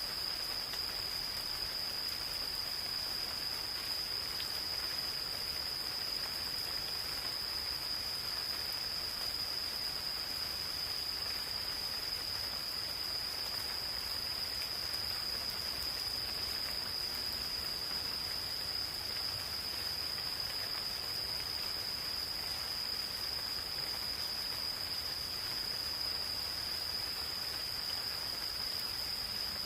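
Gentle rain falling in a forest with a steady, unbroken high-pitched insect chorus over it.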